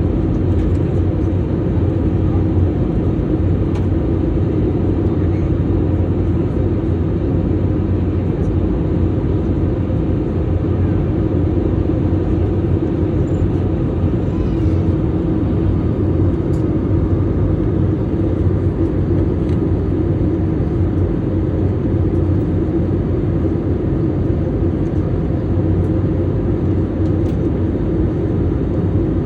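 Steady low rumble and hiss of an airliner's engines and airflow, heard inside the passenger cabin during the approach.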